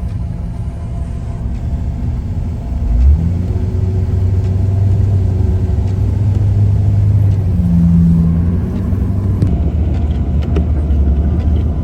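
A 4x4's engine running steadily with a low rumble while driving, with a brief thump about three seconds in.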